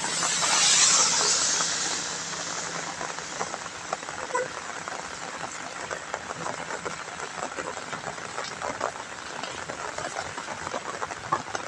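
Rain falling on a wet road: a steady hiss dotted with many small drop ticks. In the first two seconds a vehicle's tyres hiss on the wet asphalt as it passes, fading out.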